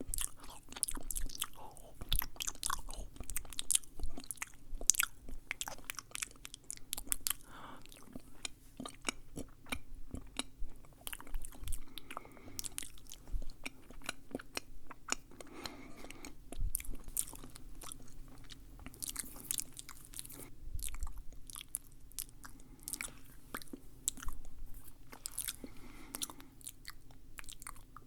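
Close-miked wet mouth sounds: rapid, irregular clicks and smacks of lips and tongue, like chewing or nibbling, over a faint steady low hum.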